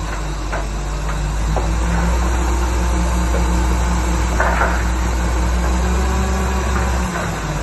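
Heavy earthmoving machine's diesel engine running steadily, with a few sharp metallic clanks, the loudest about four and a half seconds in.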